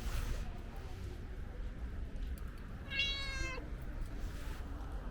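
A stray ginger cat meowing once, a single short call about three seconds in, asking for food. A steady low rumble runs underneath.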